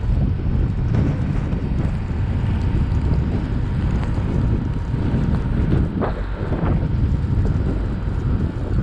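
Steady low rumble of a car driving through a snowstorm: tyre, engine and wind noise, with a couple of faint knocks about six seconds in.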